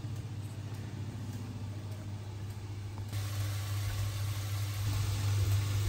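Steady low hum of a running kitchen appliance, with a faint hiss of cooking from the pans on the hob joining about three seconds in.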